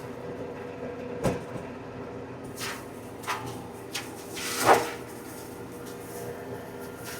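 A TYM compact tractor's engine and flail mower running steadily, heard from inside the cab, with a string of sharp knocks and clunks over the steady hum, the loudest a little past halfway.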